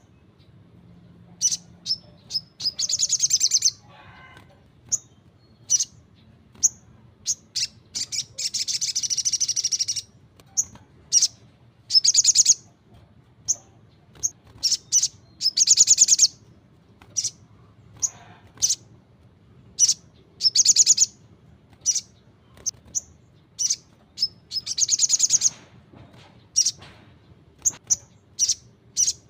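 A sogon (little spiderhunter) singing vigorously. Sharp single high chirps alternate with rapid, high trills about a second long, repeated throughout.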